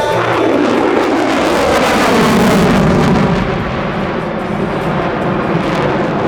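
F-35A Lightning II fighter jet, with its single Pratt & Whitney F135 turbofan, making a fast pass, its engine noise sweeping down in pitch as it goes by and loudest about two to three seconds in.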